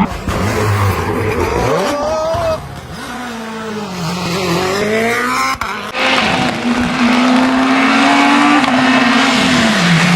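Rally car engines driven hard, the pitch climbing and dropping sharply through gear changes and lifts. About six seconds in the sound switches abruptly to another car holding a high steady engine note, which falls away near the end.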